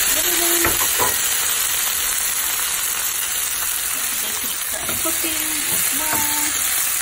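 Cherry tomatoes and browned chicken thighs sizzling steadily in a hot skillet, just after the tomatoes went in.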